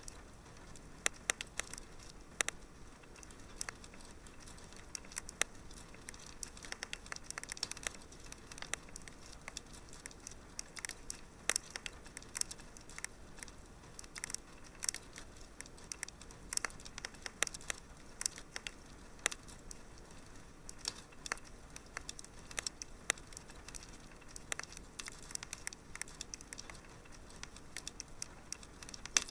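Wood fire burning in a fireplace, crackling and popping: many irregular sharp snaps over a soft steady hiss.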